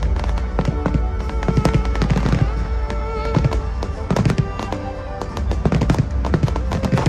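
Fireworks going off, many bangs in quick succession with a low rumble beneath, while music plays alongside.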